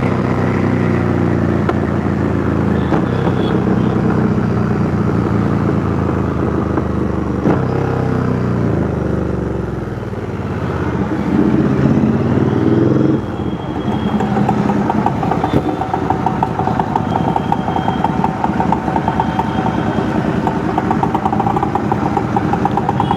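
Royal Enfield Interceptor 650's parallel-twin engine through a custom 2-into-1 exhaust, running steadily on the move. It eases off about ten seconds in, rises again briefly, then drops suddenly at about thirteen seconds to a lower, even pulsing beat.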